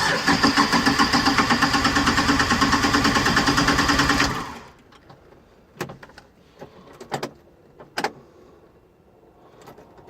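Kioti CK30 compact tractor's three-cylinder diesel engine cranking on the starter in a cold start at about −9 °C, with fast, even pulses for about four seconds. The cranking then stops without the engine catching, and a few faint knocks and clicks follow.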